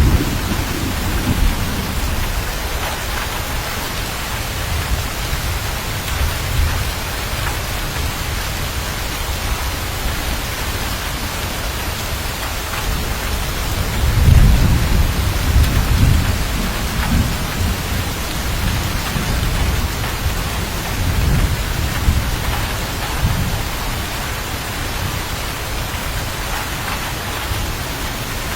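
Steady heavy rain hissing, with rolling thunder rumbling low underneath, swelling loudest about halfway through and again a little later.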